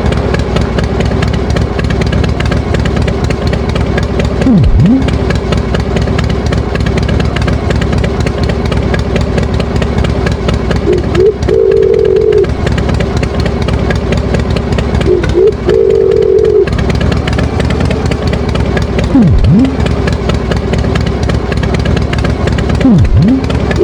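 Tractor engine sound effect running steadily and loudly. A held tone about a second long recurs every few seconds, and quick swoops drop in pitch and come back up now and then.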